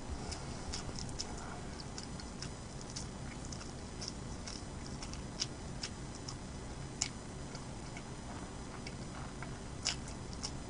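Close-miked eating: small, sharp wet mouth clicks and smacks at irregular intervals, with a few louder clicks about five and a half, seven and ten seconds in.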